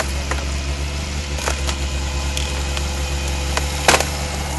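Rally car engine idling steadily, with a few short sharp knocks, the loudest about four seconds in.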